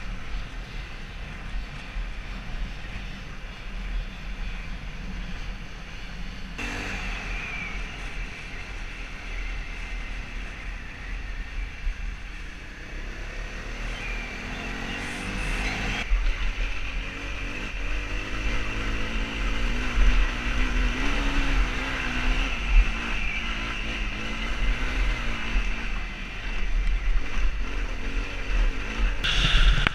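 Honda CRF250L single-cylinder motorcycle engine running on the move, its pitch rising and falling with the throttle over a steady low wind rumble. The sound changes abruptly about 7 and 16 seconds in, as between separately cut clips.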